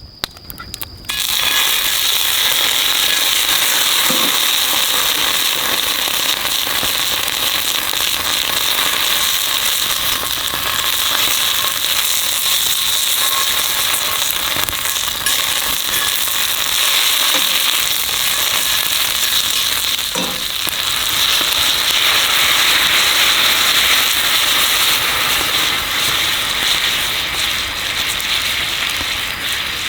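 Steak sizzling loudly over a campfire. The dense hiss starts suddenly about a second in, with a couple of sharp pops.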